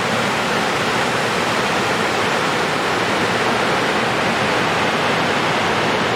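Rushing water: a steady, even rush of falling or fast-flowing water, heard close by.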